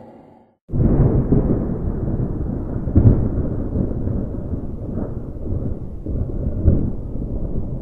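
Loud, rumbling thunderstorm noise that starts suddenly about a second in, with heavier jolts about three seconds in and twice more later.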